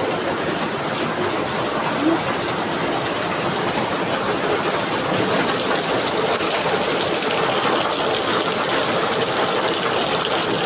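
Heavy rain pouring down steadily as a dense, even hiss, with water gushing.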